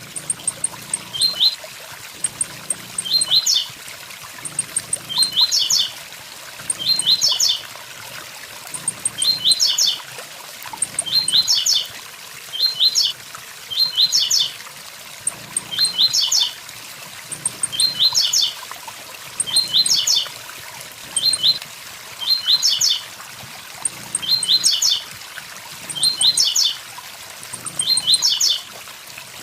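Blue-black grassquit (tiziu) singing its short 'tui tui zel zel' phrase over and over, about once every two seconds, each phrase led by a few quick high ticks. A steady waterfall rush runs underneath.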